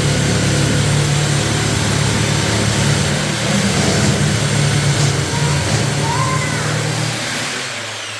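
A motor engine running steadily with a low hum, fading away near the end.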